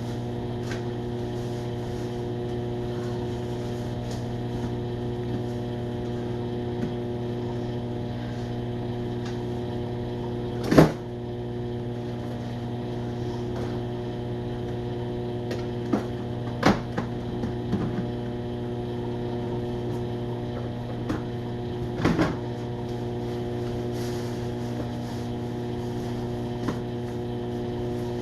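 Steady electrical hum from a running household appliance, with a few scattered clicks and knocks; the loudest knock comes about eleven seconds in.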